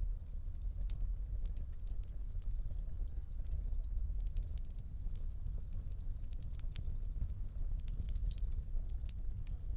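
Wood fire crackling in a fireplace: many small, sharp pops and snaps, scattered irregularly, over a steady low rumble.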